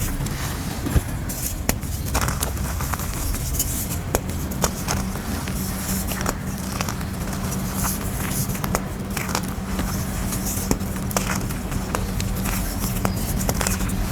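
Molded grey gym chalk being crushed and crumbling: a continuous crunchy crackle with frequent sharp snaps as pieces break.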